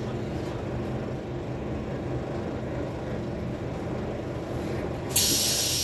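Scania K280UB4 city bus running, with its five-cylinder diesel engine and drivetrain humming steadily as heard from inside the passenger cabin. About five seconds in, a loud, steady hiss sets in abruptly.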